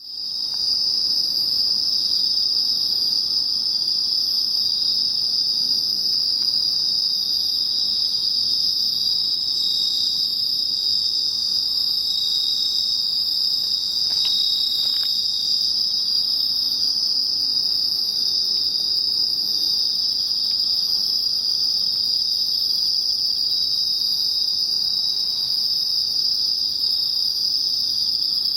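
Dense, steady night chorus of Japanese autumn crickets, bell crickets (suzumushi) and field crickets (kōrogi), chirring without pause.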